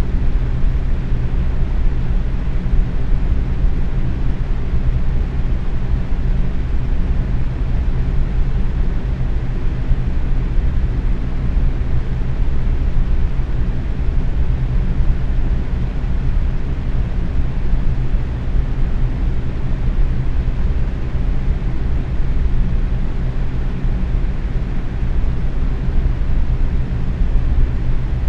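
Box fan running steadily at medium speed: an even whoosh of moving air with a low hum from the motor.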